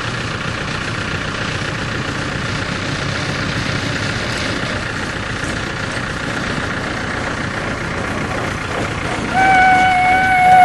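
A vehicle's motor running steadily, then about nine seconds in a horn sounds one loud, long, steady note.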